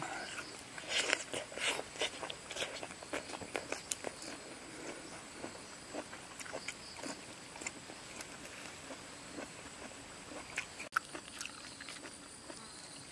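Close-up wet chewing and lip-smacking of a person eating ripe jackfruit flesh: a quick run of mouth clicks and smacks in the first few seconds, then sparser.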